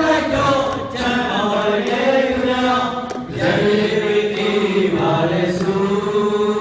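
Voices chanting in long held notes, with one phrase ending about a second in and another a little past three seconds.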